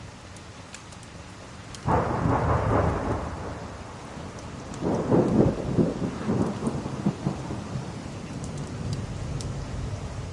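Steady rain with a thunderclap about two seconds in that rumbles for a couple of seconds, then a second, longer roll of thunder from about five seconds in that crackles and fades away.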